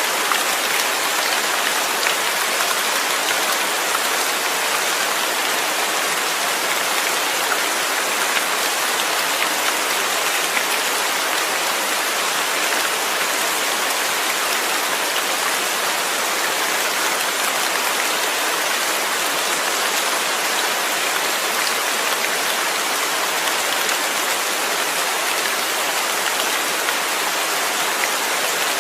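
Steady rain falling on a surface, an even hiss with scattered drops.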